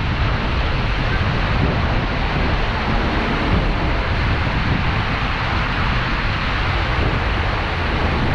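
Seljalandsfoss waterfall: a loud, steady rush of falling water, with wind buffeting the microphone.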